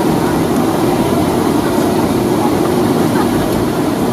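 Steady cabin noise inside a Boeing 757-200 on the ground before takeoff, its Rolls-Royce RB211 engines running at low taxi thrust with an even rumble.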